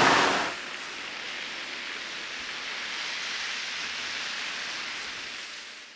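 Steady outdoor background hiss with no distinct events, louder for the first half second, then even, fading out near the end.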